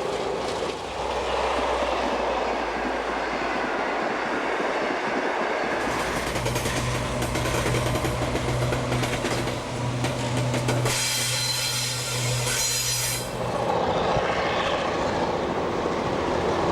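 Trains running along the track, with wheels clattering over rail joints. A steady low drone sounds from about six seconds in until around thirteen seconds, and a bright high-pitched squeal or hiss comes near the middle.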